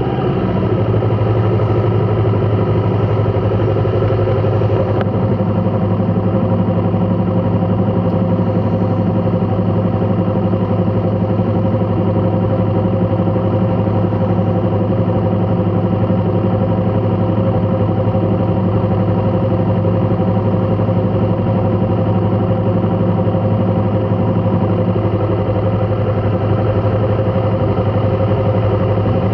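A vehicle engine idling steadily at an unchanging pitch, with no revving.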